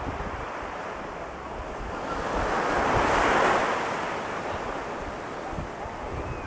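Ocean surf: a wave breaks and washes up the sand. The rush swells to a peak about three seconds in, then fades, with a light wind rumble on the microphone.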